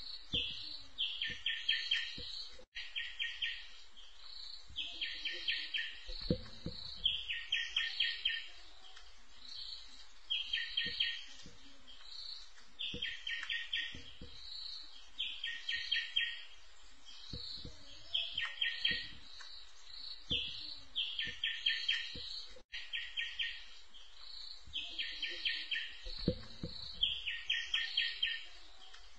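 A bird calling over and over: a short phrase of quick high notes, repeated every one to two seconds. Brief low rumbles come about six seconds in and again near the end.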